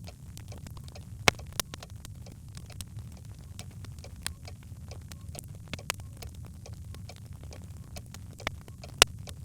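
Birch logs burning in a fireplace, crackling: a steady low rumble of the fire with scattered sharp snaps and pops, two loud pops about a second in and near the end.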